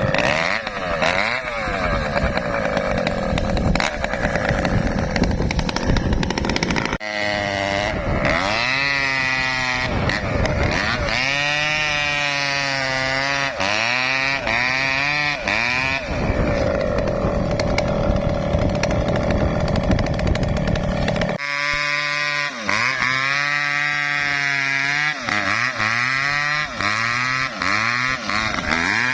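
Two-stroke chainsaw cutting an Acacia mangium tree, its engine pitch rising and falling again and again as the throttle is worked.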